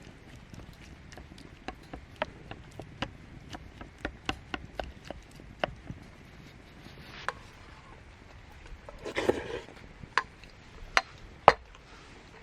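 Wood fire crackling, with irregular sharp pops and snaps, a short rustling burst about nine seconds in and one loud snap near the end.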